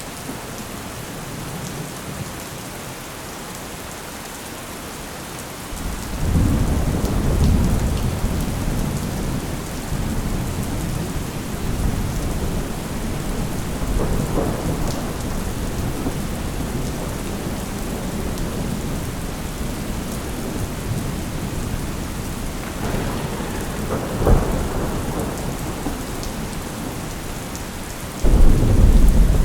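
Thunderstorm: steady rain with thunder. A low rumble of thunder breaks in about six seconds in and rolls on under the rain, a sharp crack comes late on, and another loud thunderclap starts near the end.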